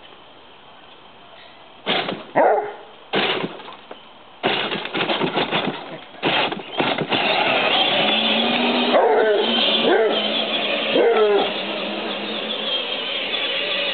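Hound dog barking and baying in loud bursts with bending pitch, starting about two seconds in. A steady rushing noise sets in behind it about seven seconds in.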